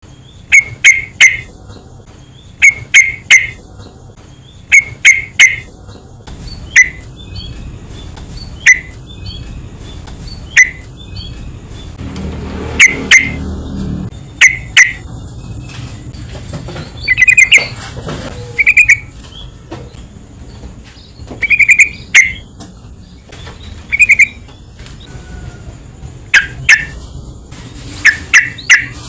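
Sooty-headed bulbuls (trucukan) calling: loud, short notes in quick clusters of two to four, repeated every second or two.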